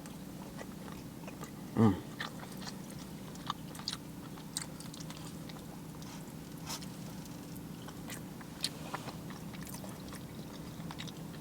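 A man chewing a mouthful of seafood close to the microphone, with small wet mouth clicks, over a steady low hum. About two seconds in he gives one short "mm".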